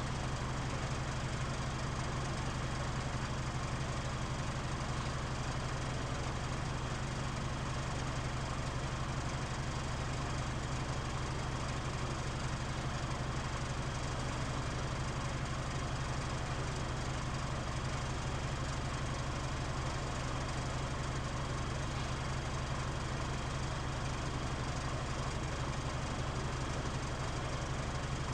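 Mitsubishi Fuso KL-MP37JK city bus's diesel engine idling steadily, heard from inside the cabin, with the heavy idling vibration noise this bus is known for.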